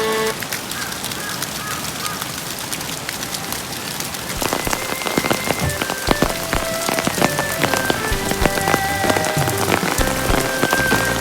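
A dense, steady patter of many small clicks, like rain falling on a surface. A faint tenor saxophone melody comes in about four seconds in.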